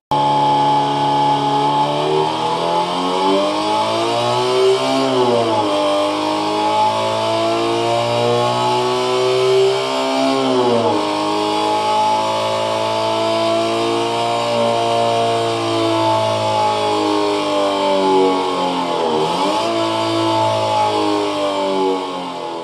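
Synthesized engine sound imitating a Subaru EJ20 flat-four with equal-length exhaust, from a homemade optical sound generator (laser and photosensor reading a patterned spinning disc) played through a small speaker resonating in a can. The revs climb steadily and fall back sharply three times, as if the throttle were blipped and released.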